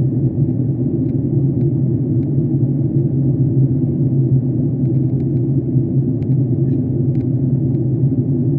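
Steady drone of a jet airliner's cabin in flight: engine and airflow noise with a deep hum, unchanging, with a few faint ticks in the second half.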